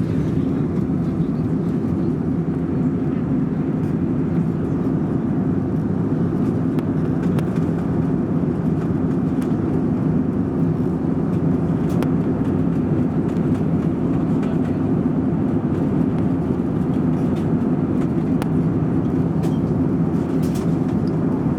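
Steady in-flight cabin noise of an Airbus A321 climbing after take-off, heard from a seat at the rear of the cabin: a constant low hum of engines and airflow that holds level throughout.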